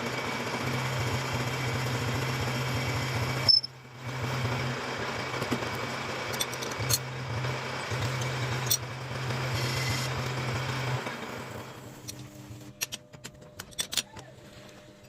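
Metal lathe running with a steady hum, then winding down about eleven seconds in, followed by scattered light metallic clinks.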